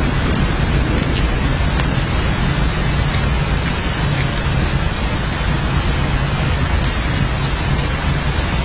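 Steady rain falling, an even hiss with a constant low rumble underneath and scattered sharp ticks of single drops.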